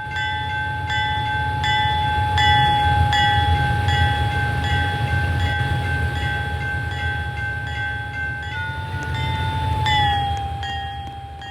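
A freight train rumbling past while a bell rings steadily, about three strokes every two seconds. The bell's pitch drops slightly near the end.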